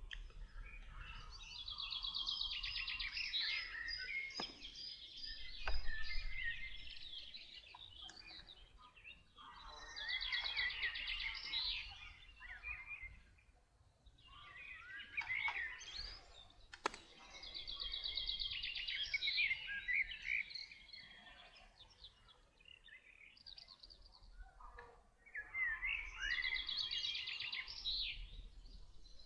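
A songbird singing in phrases of fast trilled and whistled notes, each a few seconds long with short pauses between, over a faint low rumble. A few sharp clicks are heard.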